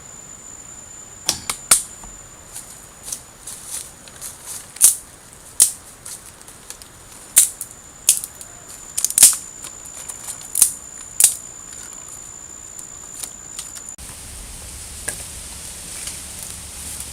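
A series of sharp, irregular clicks and cracks, about a dozen over ten seconds, some in quick pairs, then a cut to a steady hiss.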